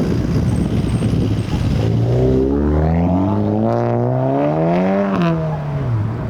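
Car engine with a loud rough rumble, then revving: the engine note climbs steadily for about three seconds, drops back quickly and settles to a steady lower note near the end.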